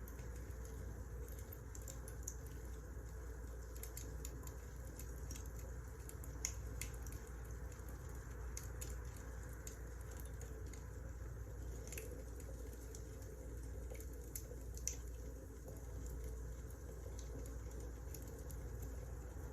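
Wood fire crackling: irregular small pops and snaps over a low, steady rumble.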